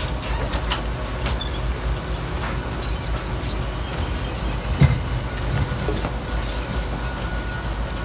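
Garbage truck engine running steadily with a low rumble, and a single sharp clank about five seconds in.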